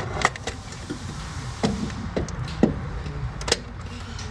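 Scattered sharp clicks and knocks of hand tools on metal, about five in four seconds, as a wrench works the starter's mounting bolt.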